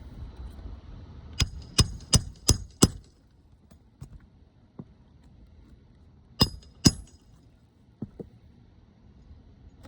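Hammer driving roofing nails into asphalt shingles: a quick run of five ringing metal strikes, then two more a few seconds later and a couple of light taps.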